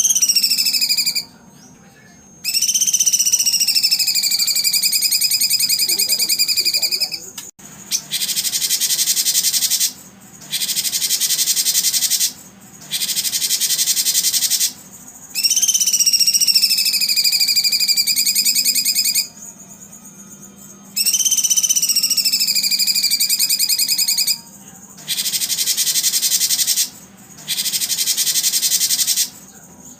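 Recorded animal calls played as a songbird-training track. Long whistles dip slightly and then hold for several seconds. They alternate with two-second bursts of dense, high, rapidly pulsing buzz, with short pauses between calls.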